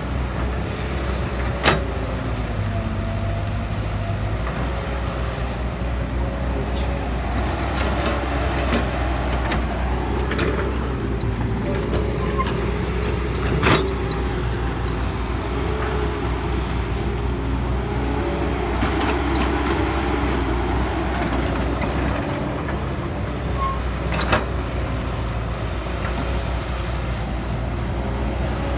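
Cat 312BL excavator's diesel engine running steadily under load, with a wavering hydraulic whine as the boom and bucket work. Three sharp knocks come through: one near the start, one in the middle and one near the end.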